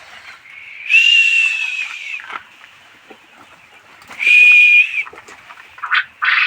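Quail in a farm pen calling: two long, even whistles of about a second each, then two short calls near the end.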